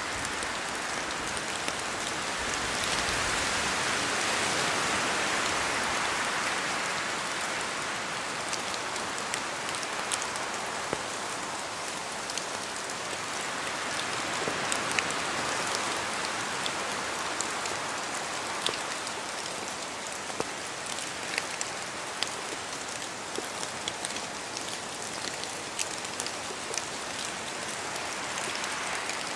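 Rain and wind in a forest: a steady wash of rain with scattered louder drops falling from the trees. The wash swells for a few seconds near the start, then settles.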